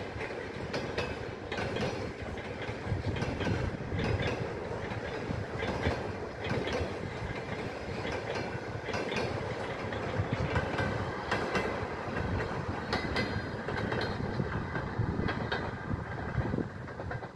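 Passenger train coaches rolling past, their wheels clicking over the rail joints over a steady rumble.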